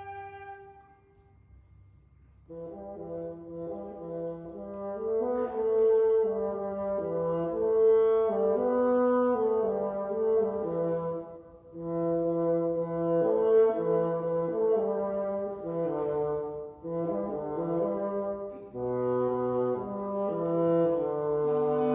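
Symphony orchestra playing. After a short hush about two seconds in, the brass come in with slow, sustained chords, played in phrases that break briefly twice.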